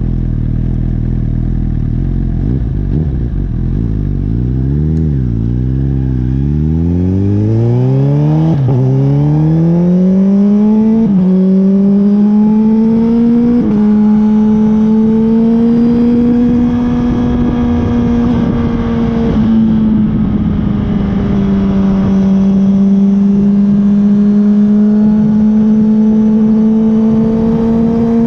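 Honda CB1000R's inline-four engine pulling away from low revs, rising in pitch through the gears with three quick upshifts, then running steadily at cruising speed.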